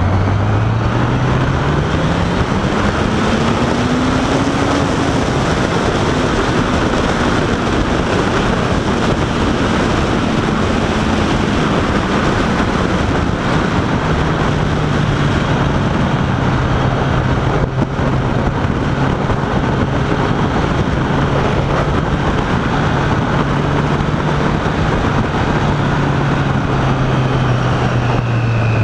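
Honda 1000 cc inline-four motorcycle engine pulling hard, its pitch climbing steeply for about five seconds, then easing off and holding a steady cruise before dropping as the bike slows near the end. Heavy wind rush over the microphone throughout.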